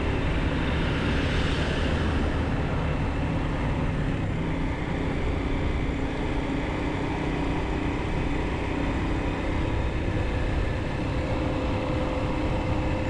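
Bajaj Pulsar single-cylinder motorcycle engine running steadily while riding, with wind and road noise. A brief brighter hiss swells and fades in the first two seconds.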